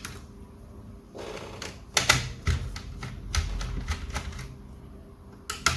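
Scattered sharp clicks and clacks of hard objects being handled on a workbench, with a cluster of knocks about two seconds in and another near the end.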